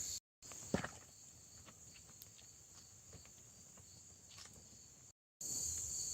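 Crickets trilling steadily, broken by a quieter stretch in which only scattered clicks and ticks are heard, the loudest a sharp knock about a second in. The sound cuts out abruptly twice.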